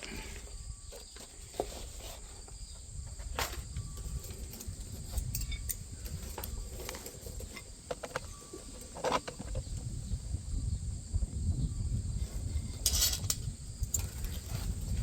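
Scattered light clicks and knocks of metal parts and hand tools being handled while working on a corn head's stalk rolls, over a low rumble and a faint steady high-pitched hum.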